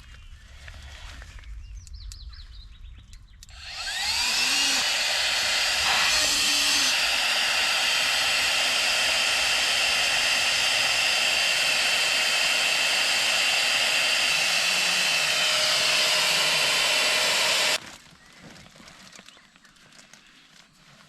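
A small electric motor starts about four seconds in with a rising whine and runs with a loud steady rushing noise for about fourteen seconds, then cuts off suddenly.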